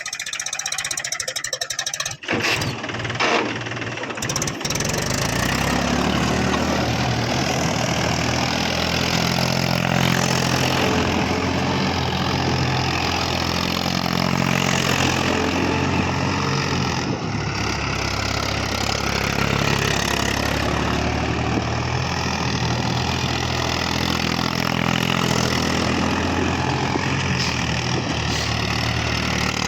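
Tractor engine starting about two seconds in, after a rapid clicking that fits cranking, then running steadily.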